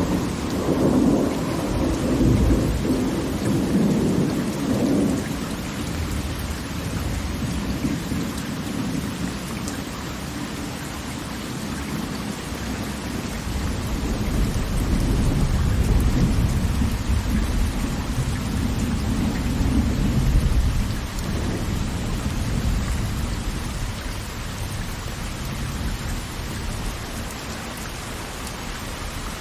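Steady roar of heavy falling water, with deep rumbling swells that rise and fade twice, once near the start and again past the middle.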